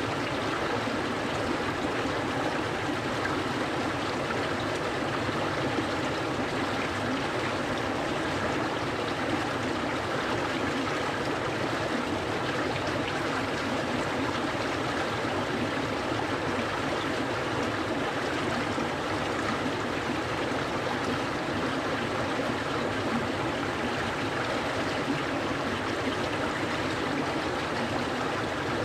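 A clear mountain stream flowing, a steady, unbroken rush and babble of water.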